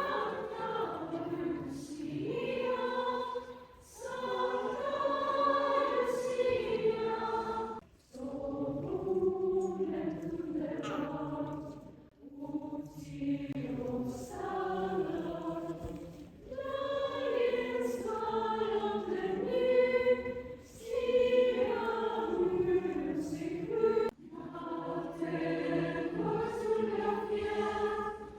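Choir singing a slow Swedish song in long phrases with short breaks between them.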